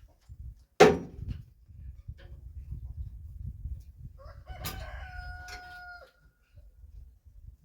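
A single loud, sharp knock about a second in, then a rooster crowing once, a held call of about a second and a half, over a low rumble.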